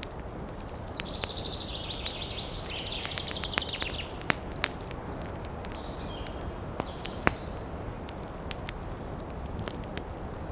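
Campfire crackling with sharp pops over a steady rush of wind. About a second in, a bird chatters in a rapid high trill for about three seconds, and a few short high calls follow later.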